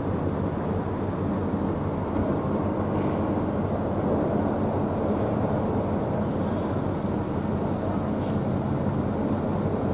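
Steady engine and road noise of a car on the move, an even rumble with a low hum.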